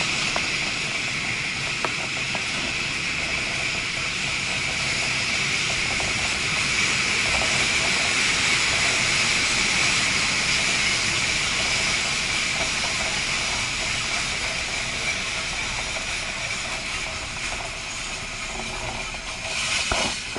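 Local train running and slowing into a station, heard through an open carriage window: a steady hiss of rushing air and rolling rail noise that slowly fades as the train slows, with a short louder burst near the end.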